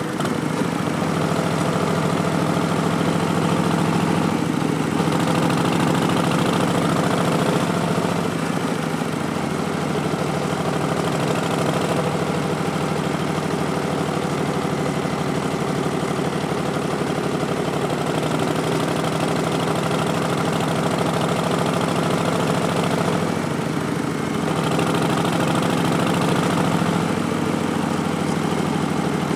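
Harley-Davidson Street Bob's V-twin engine running steadily through a Vance & Hines Twin Slash slip-on exhaust. Its note dips and shifts briefly a few times.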